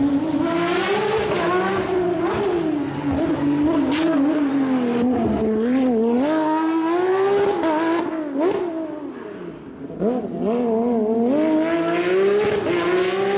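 Porsche competition car's engine revving hard, its pitch climbing and falling again and again as the car accelerates and lifts off through a rally or hill-climb stage. There is a deeper drop about ten seconds in, then it climbs again.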